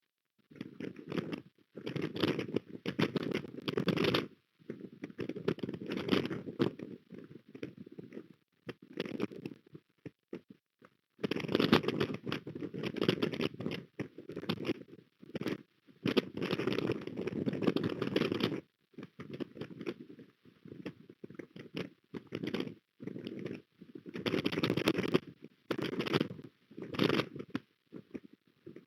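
Strong wind buffeting the osprey nest camera's microphone in rough gusts of a second to a few seconds, with brief lulls between them.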